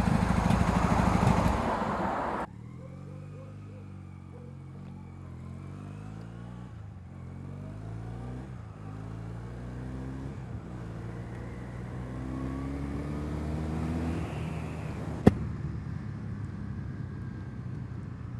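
Wind noise over the microphone and the 1984 Honda CB450SC's parallel-twin engine running while riding, cutting off sharply about two seconds in. Then the engine is heard more quietly, its pitch rising and falling with the revs, with a single sharp click near the end.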